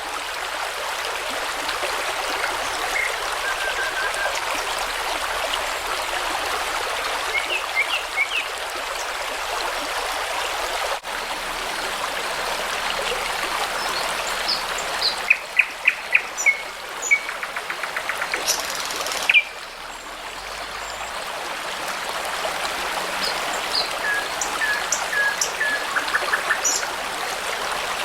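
A babbling brook running steadily, with songbirds singing over it in short scattered phrases and a quick run of sharp notes midway.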